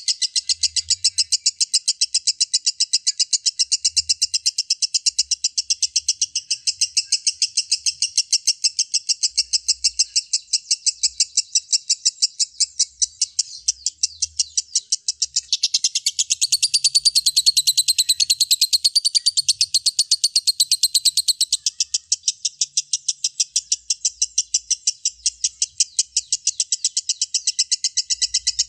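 Lovebird giving its long 'ngekek' chatter: a rapid, unbroken run of evenly repeated shrill notes. From about 16 to 21 seconds in, a higher, busier stretch of notes joins in.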